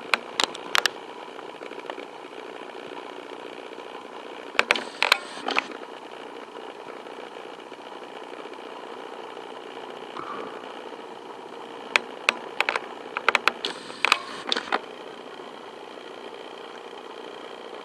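Steady drone of an Airbus A380's jet engines with a faint held whine, broken by several short clusters of sharp clicks.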